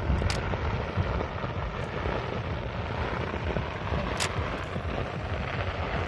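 Aerial fireworks going off: a continuous low rumble and crackle of many bursts, with sharp bangs at the start and about four seconds in.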